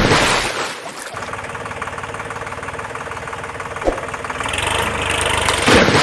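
An engine running with a fast, even pulsing. It opens with a loud whoosh, has a single click about four seconds in, and a noisy swell builds near the end.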